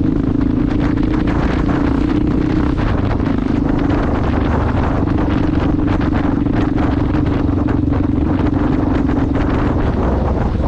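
Honda XR650L single-cylinder dirt bike engine running at a steady cruise, with rushing wind buffeting the microphone.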